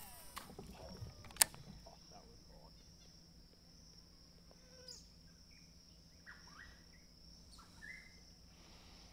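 Steady high-pitched insect drone with a few short bird calls near the end, and a single sharp click about a second and a half in.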